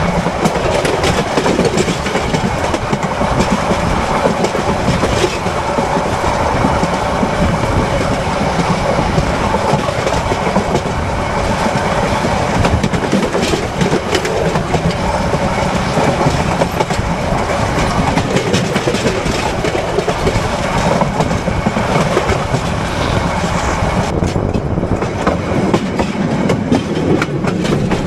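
Train bogie wheels running at speed on the rails, heard close to the wheels: a continuous rumble and rattle with clicks and clacks as the wheels cross rail joints and turnout crossover frogs. The higher hiss thins out for a couple of seconds near the end.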